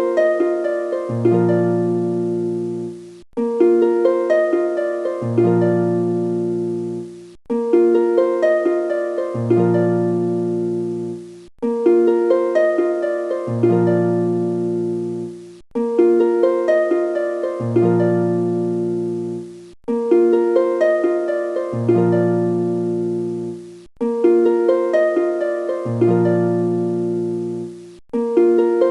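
Background music: a short melody of plucked notes that repeats as a loop about every four seconds, each repeat starting after a brief break.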